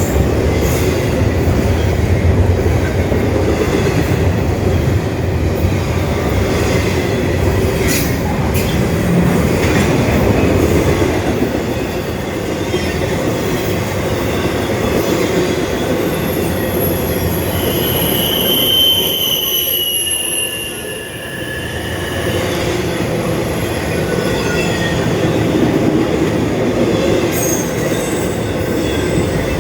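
Norfolk Southern freight train rolling past, a steady rumble and clatter of rail cars on the track, with a few sharp clicks. About halfway through, the wheels give a high squeal for several seconds.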